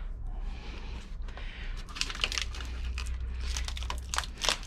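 Irregular crackling and clicking of car interior trim, seals or carpet being handled and pulled loose during interior stripping, over a steady low hum.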